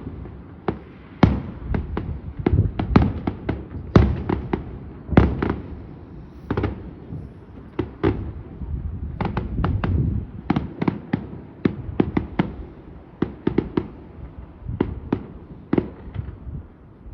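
Fireworks going off: a fast, irregular run of sharp bangs and crackles, several a second at times, over a continuous low rumble.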